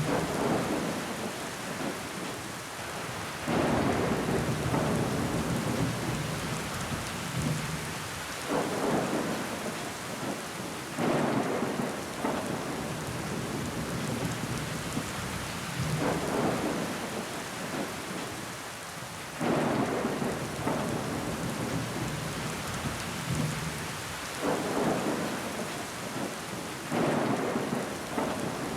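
Steady rain falling on window glass, a constant hiss, with sudden louder swells every few seconds that each last a second or two.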